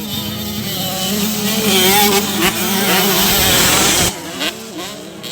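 Racing motorcycle engines revving hard, pitch rising and falling, then dropping off abruptly about four seconds in, with quieter engine sound after.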